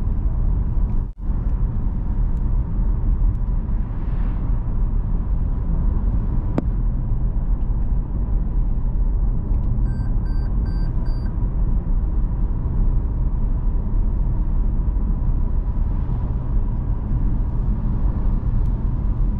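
Continuous loud, low rumbling noise with a brief dropout about a second in, and a quick run of five short high beeps around the middle.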